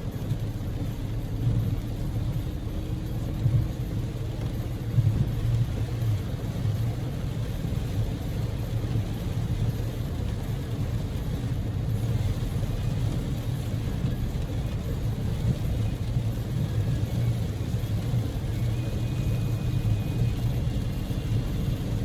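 Steady low rumble of road and engine noise inside a Daihatsu Move (L150S) driving along, its 660 cc three-cylinder EF-VE engine running under way, with a couple of brief thumps a few seconds in.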